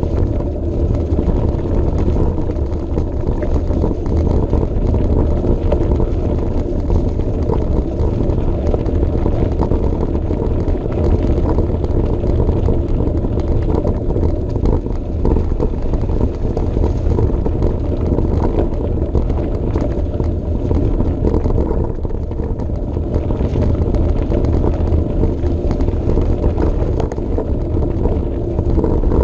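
Steady low rumble of a Trek Marlin 7 hardtail mountain bike being ridden along a path, heard through a GoPro Session mounted on the bike, with small rattles over the top.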